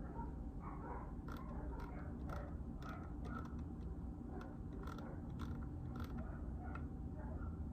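Typing on a JJK84 mechanical keyboard with Outemu Silent Peach linear switches: an uneven, continuous run of quick keystrokes, several a second.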